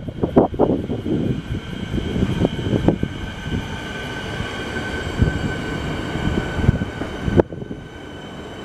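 A train running on the rails. There are sharp wheel knocks in the first second, under a steady high-pitched whine and rumble. A sharp click comes near the end, and the sound then drops abruptly.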